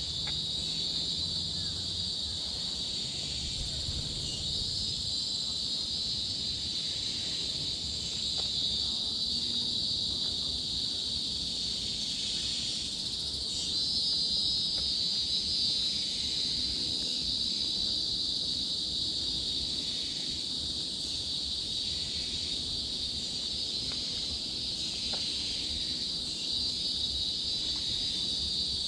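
Chorus of forest insects making a steady high buzzing drone, growing louder a few seconds in and again about halfway through.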